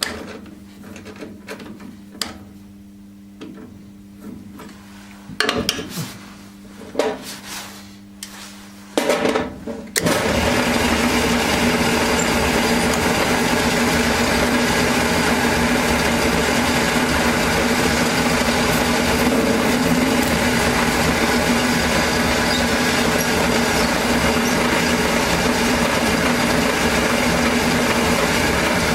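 Metal parts knocked and handled over a steady hum, then about ten seconds in a workshop power tool starts and runs steadily and loudly.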